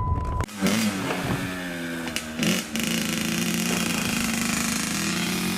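Dirt bike engine running, its revs rising and falling for the first couple of seconds, then settling into a steady run. A steady high beep sounds for the first half second before it.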